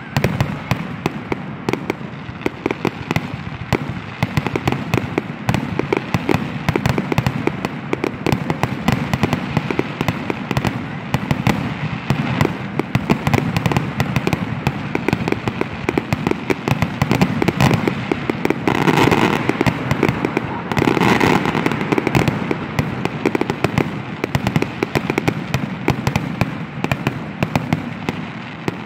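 Aerial fireworks going off in a rapid, continuous barrage of bangs and crackles.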